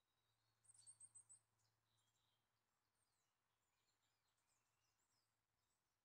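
Faint woodland birdsong: a quick run of about six high chirps about a second in, then scattered thin calls.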